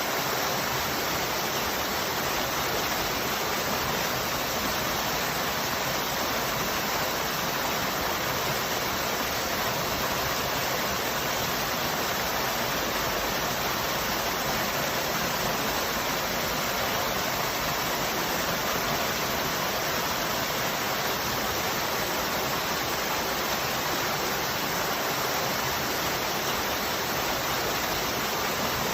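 Waterfall: falling water rushing in a steady, even roar with no change.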